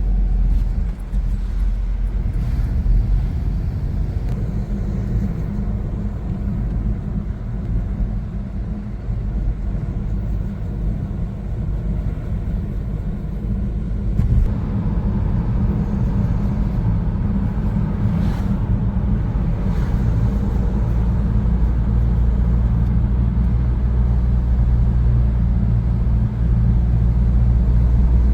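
A car driving, giving a steady low rumble of engine and road noise that grows a little fuller about halfway through.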